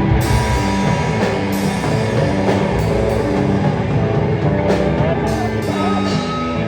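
Live rock band playing: distorted electric guitar, bass and drum kit.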